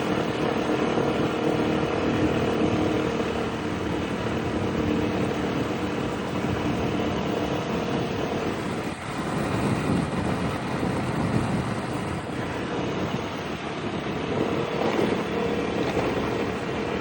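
Piaggio Liberty 125 scooter's single-cylinder four-stroke engine running while riding, a steady engine note mixed with wind and road noise. The engine note fades for a few seconds in the middle under rougher rushing noise, then returns near the end.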